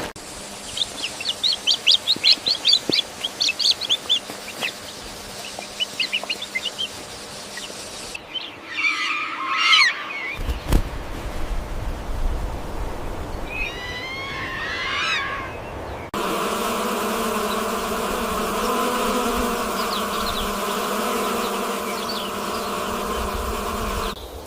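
Three animal-sound clips in turn: rapid, high, short chirps from small birds, then a few sweeping bird calls, then a steady buzz that holds until the end.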